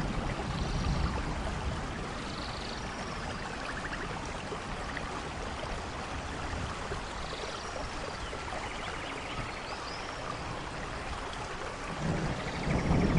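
Steady rainforest rain falling, with faint high chirps now and then. A low rumble of thunder comes in near the end.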